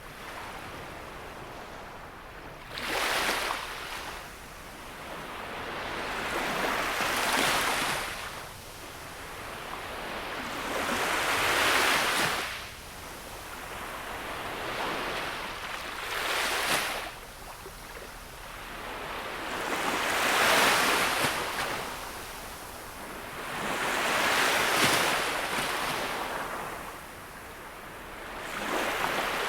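Gentle sea waves breaking and washing onto the shore, one wave about every four seconds, each swelling up and then fading.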